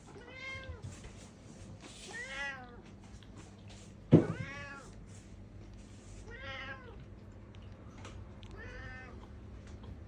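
A cat meowing five times, roughly every two seconds, each meow a short call that rises and falls in pitch; the one near the middle is the loudest.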